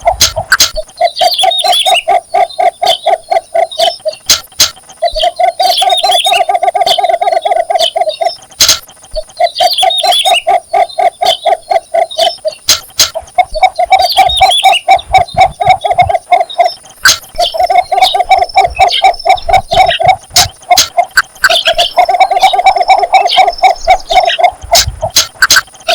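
Cinnamon bittern giving its mating call: a low, rapid clucking series about two seconds long, repeated roughly every four seconds. Higher bird chirps and a steady high insect-like tone sound behind it.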